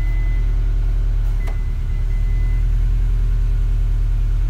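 2016 Subaru WRX STI's turbocharged 2.5-litre flat-four boxer engine idling steadily. A thin high tone sounds on and off over it in the first half, with a light click about one and a half seconds in.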